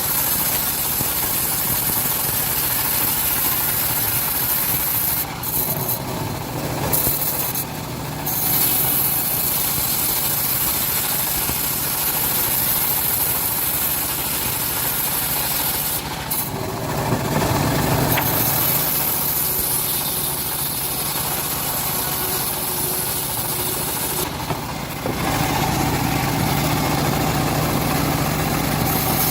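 Homemade band sawmill running and cutting through a teak log. A steady sawing noise that shifts in tone about six seconds in, around the middle, and again near the end.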